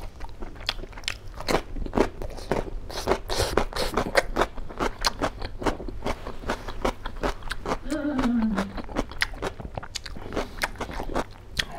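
Close-miked chewing and crunching as a person eats raw cucumber slices with rice and pork curry, a dense run of irregular crunches and wet mouth clicks. A short low hum that falls in pitch comes about eight seconds in.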